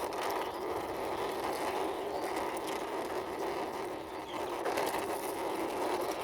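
Plastic wheels of a large toy car rolling steadily along a hard surface as it is pushed by hand, a continuous rolling whirr.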